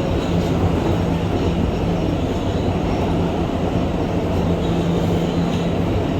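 R211 subway car running at speed between stations, heard from inside the car: a steady rumble of wheels on rail under a low, even motor hum.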